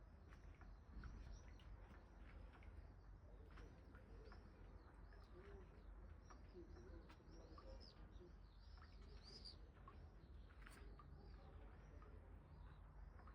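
Faint chorus of many small birds chirping, short arching calls following one another throughout, over a low steady rumble.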